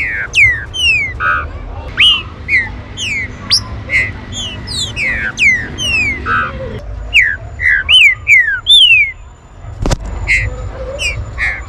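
Green-winged saltators calling: a quick, overlapping run of short, down-slurred whistled notes from more than one bird. A single sharp knock comes near the end.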